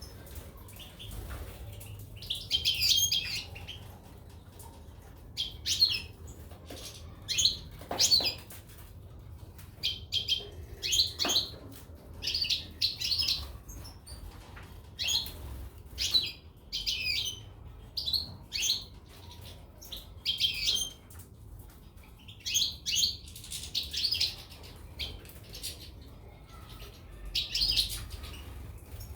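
Small caged finches chirping in short bursts, a call every second or so, with a couple of sharp knocks or flutters among them.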